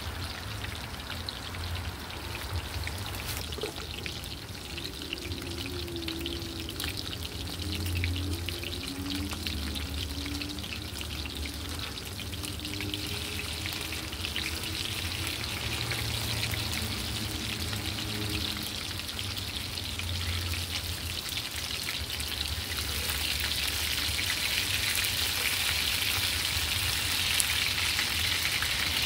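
Food frying in a little oil in a cast-iron pan kept on low heat: a steady crackling sizzle that grows louder about three-quarters of the way through.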